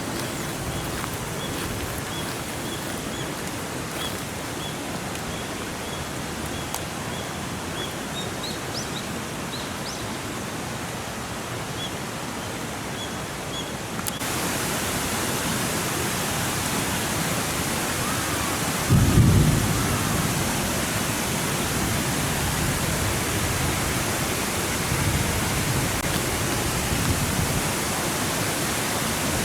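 Steady hiss of rain, louder after an abrupt change about halfway through, with a short low rumble about 19 s in.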